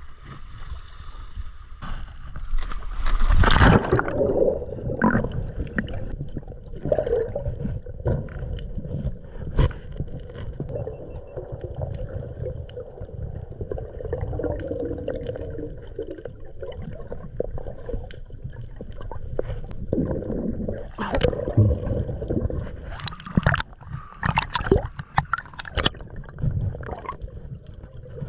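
A loud splash about three and a half seconds in as a diver goes into the sea, then muffled underwater gurgling and bubbling, with scattered sharper bursts of bubbles.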